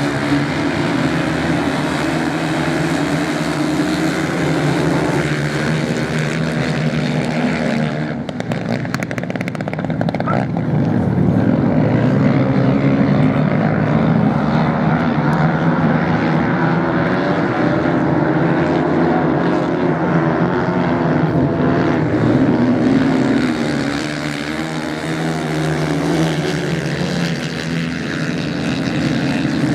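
Several racing motorcycle engines running hard at once, a continuous drone that swells and fades as bikes pass.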